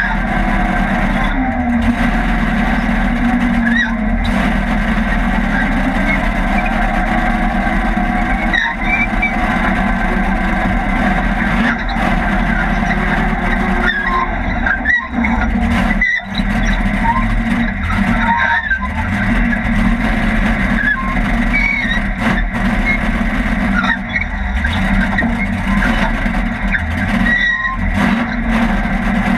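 Race car engine running hard, heard from inside the stripped cockpit, loud and steady with a few brief dips in level.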